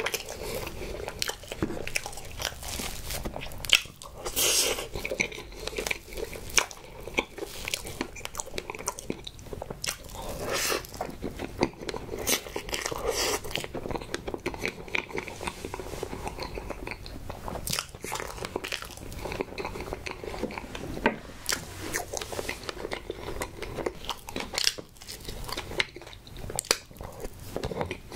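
Close-miked chewing and mouth sounds of eating strawberry crepe cake with cream, a steady run of small wet clicks and crackles.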